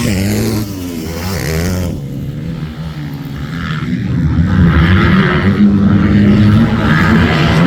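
Motocross dirt bike engines revving, the pitch climbing and dropping repeatedly as the bikes accelerate and shift, getting louder about four seconds in.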